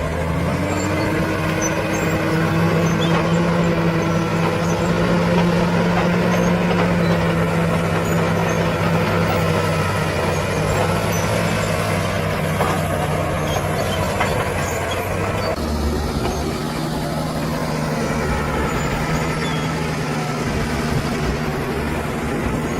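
Bulldozer's diesel engine running steadily under work, its note shifting about two-thirds of the way through.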